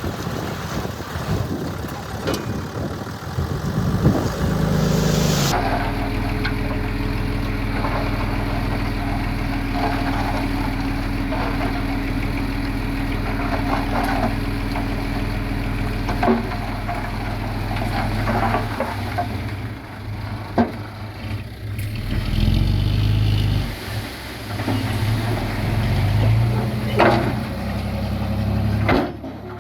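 The heavy diesel engine of an earth-moving machine, a bulldozer or dump truck, running at a steady pitch with scattered metallic clanks. A noisy rush comes first, cutting off about five seconds in. From about two-thirds of the way through, the engine rises and falls as it works under load.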